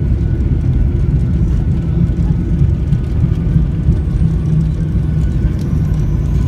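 Airplane engines during a landing: a steady, loud low rumble, with a faint thin whine creeping in higher up in the second half.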